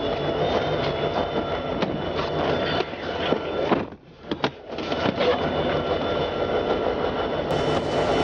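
A train nearby: a steady rumble with many short clicks and knocks, dropping out for about a second midway.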